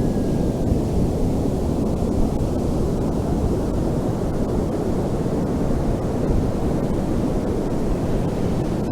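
Steady low rumble of ocean surf, mixed with wind buffeting the microphone.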